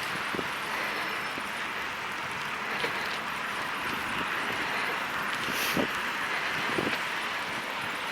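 Steady hiss of a bicycle's tyres rolling on a snowy, slippery road, with a few faint clicks.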